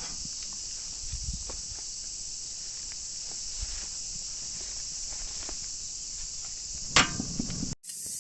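Steady high chirring of a cricket chorus, with faint scattered clicks and crackles. There is one sharp knock about seven seconds in, just before the sound cuts off abruptly.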